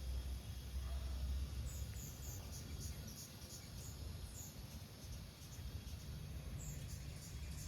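A small bird giving a quick run of short, very high-pitched chirps, about three a second, starting about two seconds in, over a low outdoor rumble.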